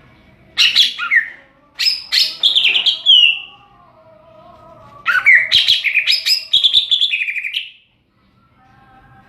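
Cucak ijo (green leafbird) singing its loud, open 'ngeplong' song: three bursts of rapid warbling, sweeping phrases, the last and longest lasting over two seconds, with short pauses between.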